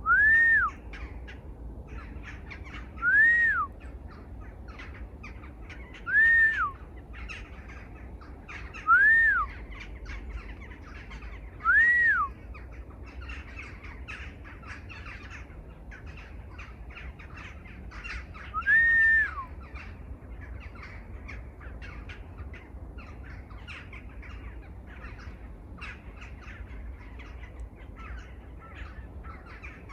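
A bird repeating a loud, clear call that rises and falls in pitch, six times at intervals of about three seconds, then stopping about two-thirds of the way through. Behind it, other birds keep up a steady patter of small chirps.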